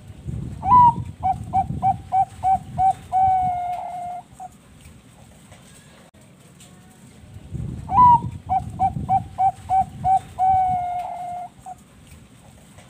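Zebra dove (perkutut bangkok) singing two full song phrases about seven seconds apart. Each phrase opens with a higher note, runs into a quick string of about six short coos and ends on a longer held coo.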